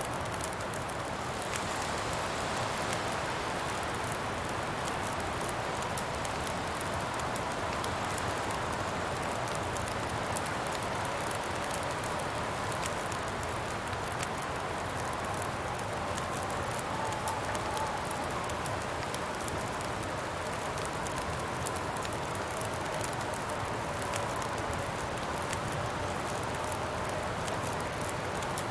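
Campfire crackling steadily over constant wind, with a faint wavering whistle in the wind.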